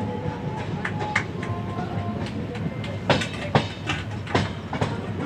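Passenger train running on the line: a steady rumble of the wheels on the rails with sharp irregular clacks over the rail joints, bunched near the middle.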